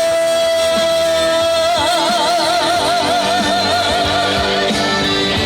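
Trot song performed live: a male singer holds the last note of the chorus line over the band accompaniment, steady at first, then with a wide vibrato from about two seconds in until it ends near four seconds. The band music carries on after it.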